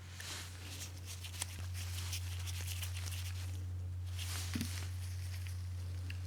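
Light rustling and small clicks from hands handling parts and tools, over a steady low hum, with one dull knock about four and a half seconds in.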